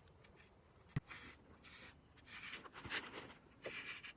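Faint rustling and scratching, with one sharp click about a second in.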